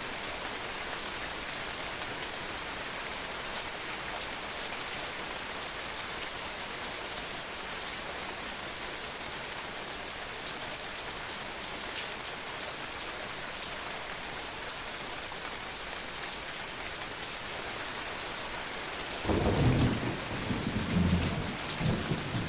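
Steady rain falling, a continuous even hiss; about 19 s in a sudden loud rumble of thunder breaks in and rolls on in several swells to the end.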